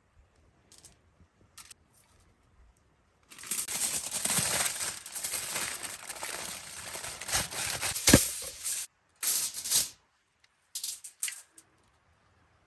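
Rustling and rattling noise, starting a few seconds in, with one sharp click a little after eight seconds in, then a few short bursts of the same rustle.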